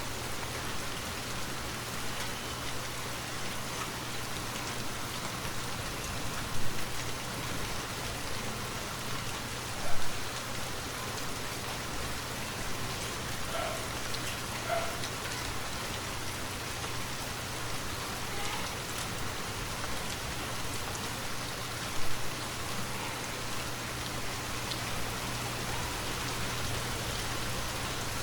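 Steady rainfall on a forest canopy, an even continuous patter. Three louder, sharp taps stand out, about a quarter of the way in, about a third of the way in, and again later.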